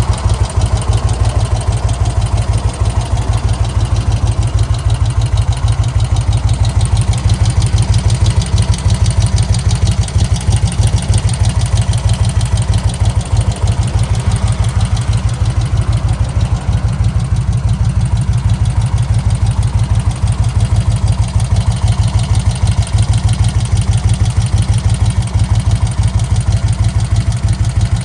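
1991 Magni Sfida 1000's air-cooled Moto Guzzi V-twin engine idling steadily with an even, low pulsing beat.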